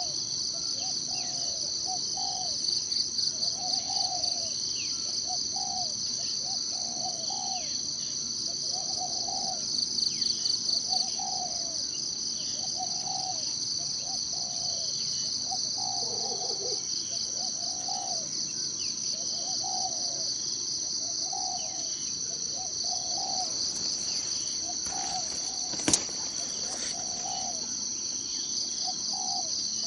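Forest ambience: a steady, pulsing high insect chorus of crickets or cicadas, with a short low call repeating about once a second and occasional high falling bird chirps. A single sharp click sounds near the end.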